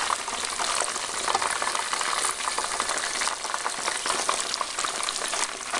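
Chicken wings deep-frying in hot oil: a steady, dense crackling sizzle.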